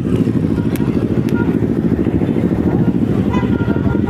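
Motorcycle engine running while riding at low speed, a steady low rumble.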